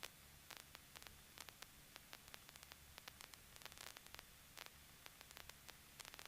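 Near silence: faint static hiss with scattered tiny crackles.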